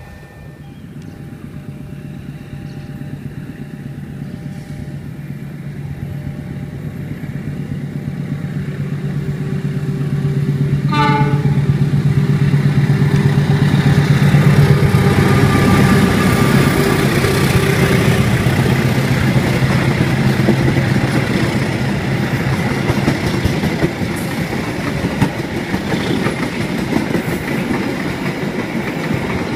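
Diesel locomotive hauling a passenger train, approaching and passing close by: its low engine drone grows steadily louder, with a short horn blast about eleven seconds in. Then comes the rumble and clatter of the coaches' wheels on the rails.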